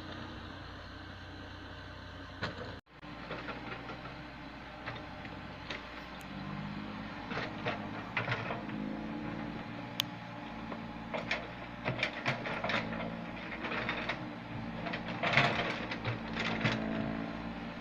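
Komatsu PC70 tracked excavator's diesel engine running, pulling harder from about six seconds in, with repeated metallic clanks and knocks from the working machine. The clanks are loudest and most frequent near the end.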